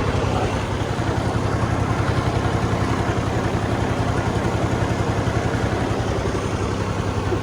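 Fiat 480 tractor's three-cylinder diesel engine running steadily under load, belt-driving a wheat thresher, with the thresher's steady rushing noise over the engine's low hum.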